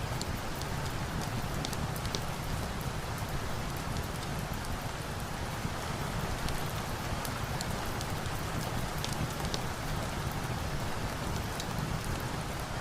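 Steady rain, an even hiss with a low rumble underneath, dotted with scattered small sharp clicks.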